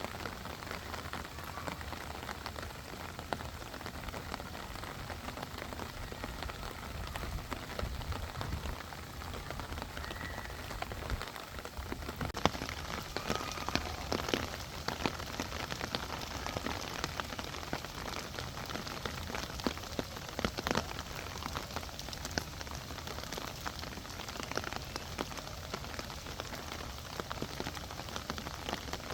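Steady hiss of wind and water at the seashore, with scattered sharp pops and crackles through the second half.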